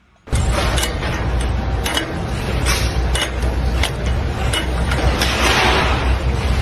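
A machine running with a steady low hum, with sharp metallic knocks and clinks every half second to a second.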